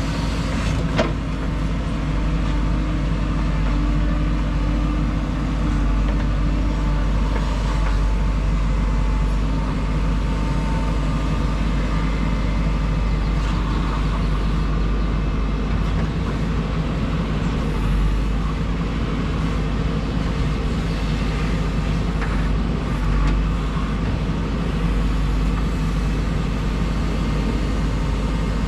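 JCB 3DX backhoe loader's diesel engine running steadily as the machine works, with a single sharp knock about a second in.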